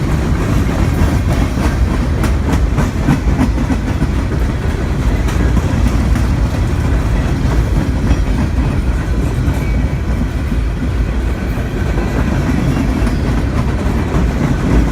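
A train rolling past close by, a loud, steady rumble with the clickety-clack of wheels over rail joints, the clicks densest a couple of seconds in.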